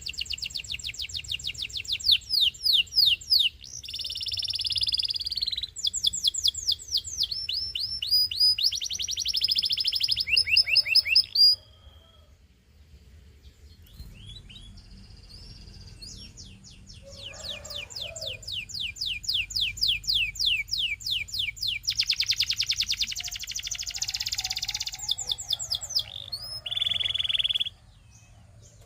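Canary singing: long, fast trills of rapidly repeated high notes, in two bouts with a break of about two seconds near the middle.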